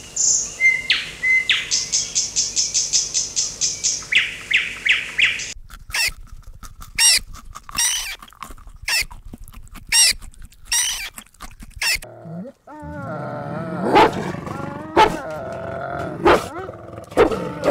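A budgerigar chirping rapidly, then about six seconds in a sharp, high otter squeak repeated about once a second. After a brief pause near twelve seconds, a wolf's lower, wavering whines with a few sharp yelps.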